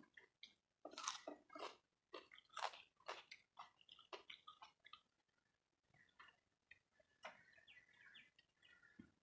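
Faint chewing and crunching of food, with small scattered clicks and crackles.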